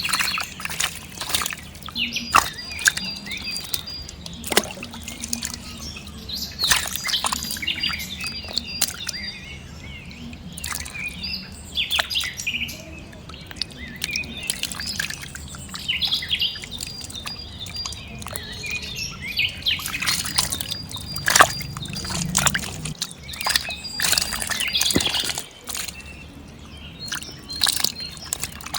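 Birds chirping, with water splashing and dripping and many short clicks and knocks throughout.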